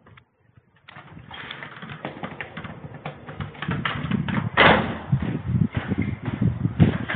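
Wind rumble and irregular knocking and rattling on a wearable camera's microphone during a bicycle ride, starting after about a second of silence and growing louder.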